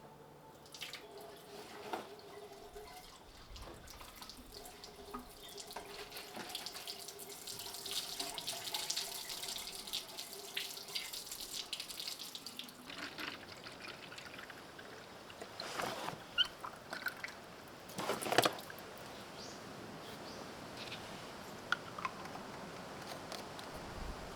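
Water running or splashing, with scattered clinks and two sharper knocks at about 16 and 18 seconds in.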